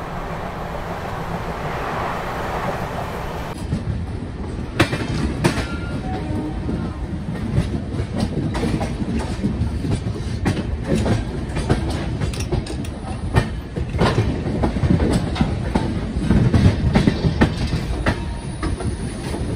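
Express train coaches running at speed: a steady low rumble, and from a few seconds in, irregular sharp clacks of the wheels over the track as the train crosses a multi-track yard.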